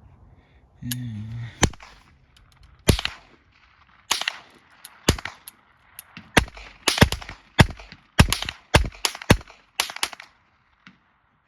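A string of rifle shots, sharp cracks at targets. At first they come about one a second, then quicken to two or three a second before stopping about ten seconds in.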